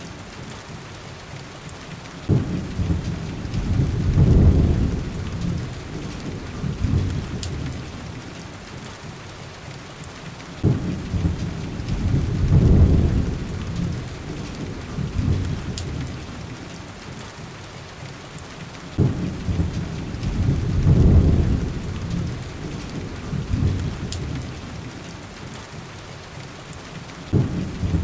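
Steady heavy rain on a window, with low rumbles of thunder about every eight seconds. Each rumble starts suddenly, swells, then fades.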